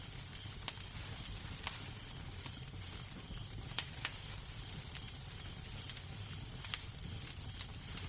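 Wood fire crackling in a fireplace: steady hiss and low rumble with sharp irregular pops and snaps.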